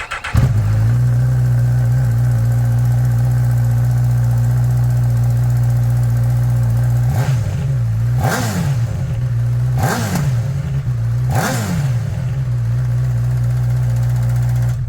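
Honda CB1000R inline-four motorcycle engine catching at the start and settling into a steady idle, blipped three times with quick revs that rise and fall, then switched off abruptly near the end.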